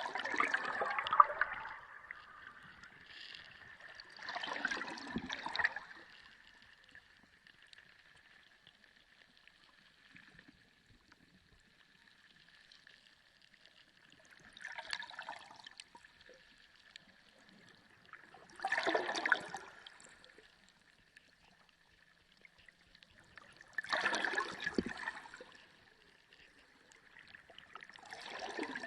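Sea water gurgling and sloshing in about six separate bursts, each a second or two long, with quieter gaps between them, over a faint steady high-pitched tone.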